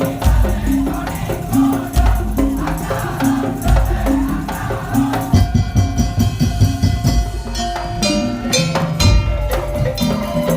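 Madurese daul ensemble playing: deep drum beats under clattering percussion and pitched percussion notes, joined about halfway by a sustained, reedy melody line.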